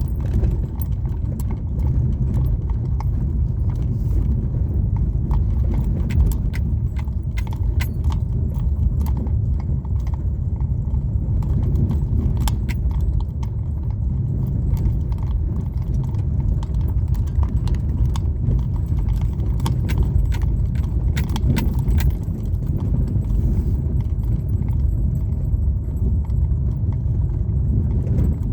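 Car driving along a highway: steady low road and engine rumble, with frequent small rattles and clicks throughout.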